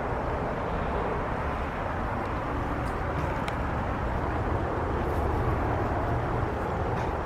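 Steady rushing of tropical-storm wind over the microphone, with a low rumble and a few faint ticks.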